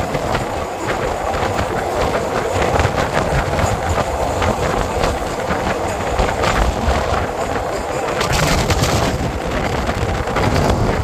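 A train passing close by: a steady rumble with a dense run of wheel clicks and rattles on the rails.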